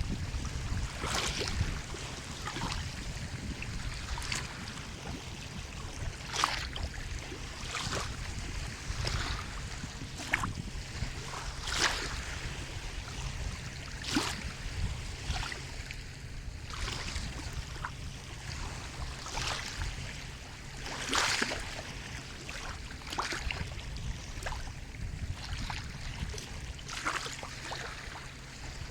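Sea waves washing on a shore: a steady low rumble with short, irregular splashes and sprays every second or two, the biggest about two-thirds of the way through.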